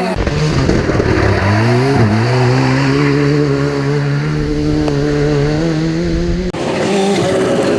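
Ford Sierra Cosworth Group A rally car's turbocharged four-cylinder engine accelerating hard. The revs rise, drop at a gear change about two seconds in, then climb steadily. The sound breaks off sharply about six and a half seconds in, and more engine noise follows.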